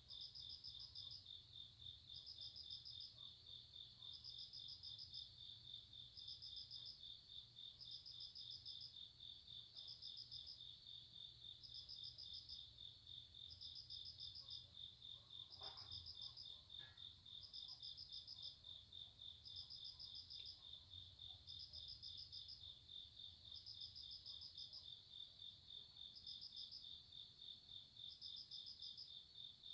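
Faint chorus of crickets on a summer night: one unbroken pulsing trill, with a second, higher call repeating about once a second above it.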